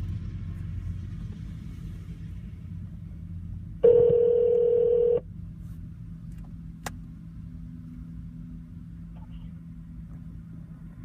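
Low car-cabin rumble, with a loud, steady phone tone lasting about a second and a half about four seconds in, then a single sharp click.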